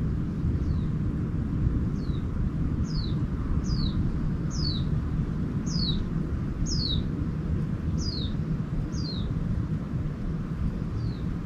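A small songbird repeating a short, high chirp that falls in pitch, about one a second, over a steady low rumble.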